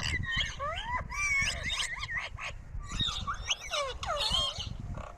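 Parrots chirping and squawking in quick succession, with rapid calls that glide up and down in pitch and overlap one another.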